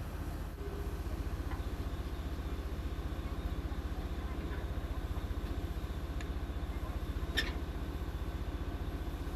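A boat engine running steadily, a low, even, rapid throb, with a single sharp click about seven seconds in.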